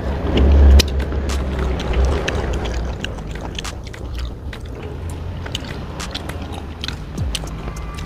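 Close-miked biting and chewing on braised chicken feet, with many small crunching clicks from the bones and cartilage. It is loudest in the first second, where the foot is bitten.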